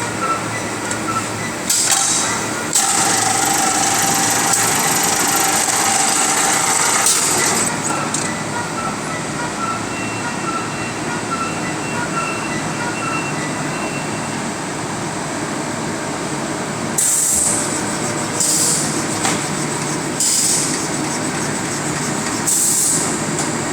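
Automatic 50 kg bagging machine running, a steady mechanical clatter broken by repeated short hisses: a long one a few seconds in, then several brief ones near the end. A steady whine sounds for a few seconds early on.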